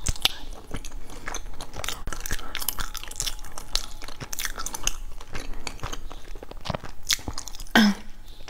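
Close-miked chewing of a soft, sticky glutinous rice cake, with many short wet clicks of the mouth working the dough.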